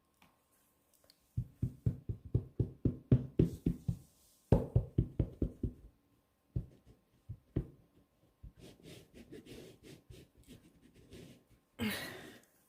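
A block-mounted rubber stamp being tapped repeatedly against a black ink pad to ink it, in quick runs of about five taps a second, then softer taps, with a short rustle near the end.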